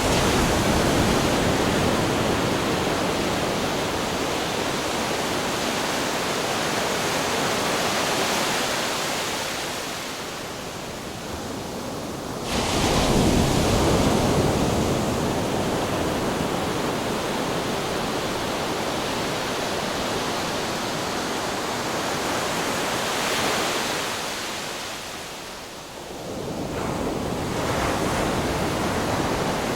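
Ocean waves crashing on rocks: a continuous rush of surf that comes in surges, with a wave breaking suddenly about twelve seconds in and another building near the end.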